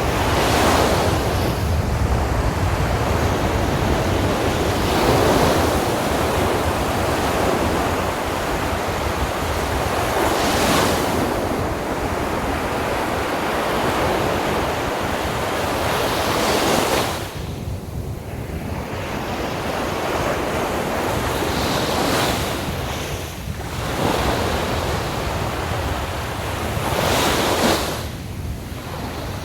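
Sea waves breaking on a beach, one surge of surf about every five or six seconds over a constant wash, with wind buffeting the microphone.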